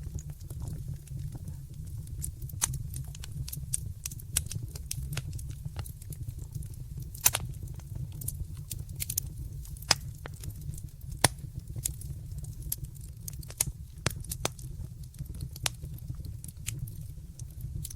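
Wood fire crackling in a fireplace: irregular sharp pops and snaps over a steady low rumble, with a few louder pops about seven, ten and eleven seconds in.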